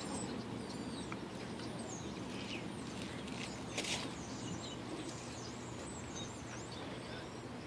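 Small birds chirping with quick rising and falling calls over faint, steady outdoor background noise, with one brief sharp noise near the middle.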